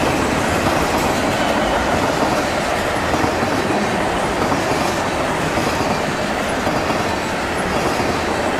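Canadian National freight train's cars (tank cars, then covered hoppers) rolling past close by, their steel wheels running on the rails in a steady, unbroken rumble.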